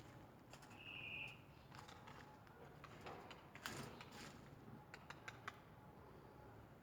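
Near silence: a few faint scattered clicks, with one brief high-pitched chirp about a second in.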